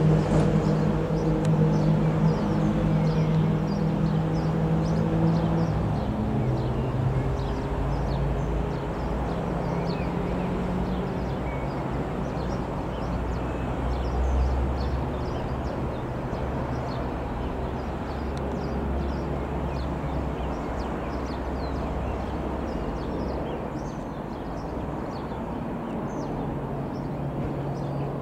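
Twin-turboprop Beechcraft Super King Air B200 droning after a low pass, its propeller tones strong at first and dying away as it recedes. Birds chirp throughout.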